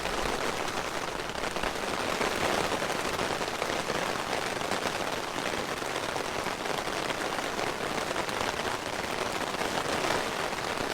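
Heavy rain pouring steadily during a thunderstorm, a dense, even hiss of falling water.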